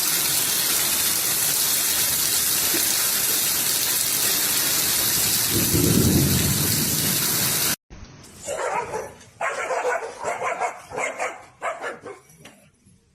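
A loud, steady hiss like heavy rain, with a low rumble swelling near the middle, that cuts off suddenly. Then a dog barks about six times in quick succession.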